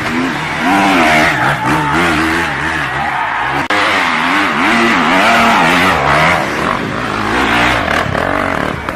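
Dirt bike engines revving, the pitch rising and falling again and again as the throttle is worked, with a sudden break about three and a half seconds in.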